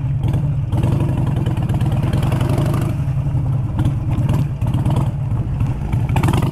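Harley-Davidson motorcycle's air-cooled V-twin engine running steadily under way on a dirt track, with a few short bursts of noise over it.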